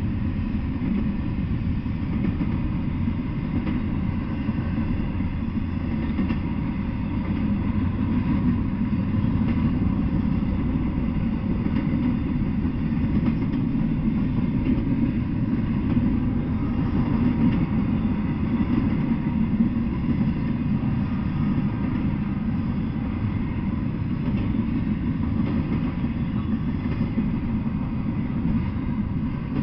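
Double-stack intermodal container freight train rolling past, its cars making a steady low rumble on the rails.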